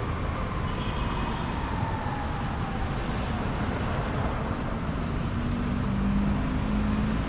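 City street traffic: a steady rumble of cars passing. One engine's whine slides down in pitch over the first few seconds, and a lower engine tone rises slightly near the end.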